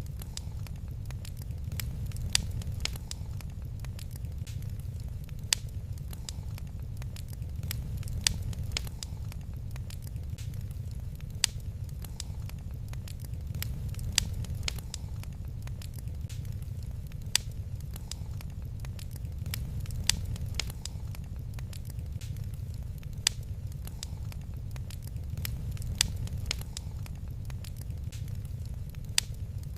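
Fireplace fire crackling, with many small sharp pops and louder snaps every few seconds over a steady low rumble.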